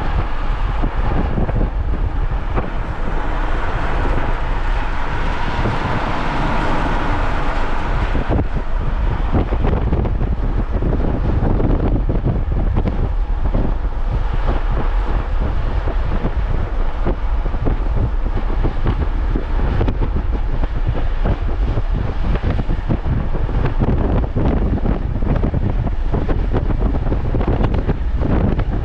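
Wind buffeting the microphone, a loud steady rumble; the higher hiss over it drops away about eight seconds in.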